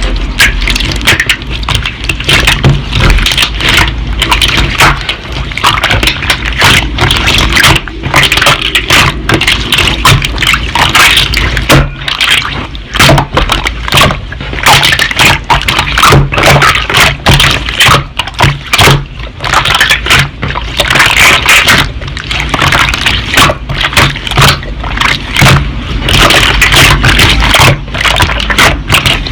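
Slime being squished, poked and stretched by hand, giving a dense run of wet clicking and crackling pops.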